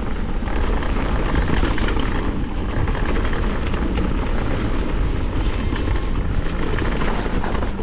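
Wind buffeting the microphone of a camera on a moving mountain bike, a steady rumbling rush, with faint rattles and knocks from the bike running over rough trail.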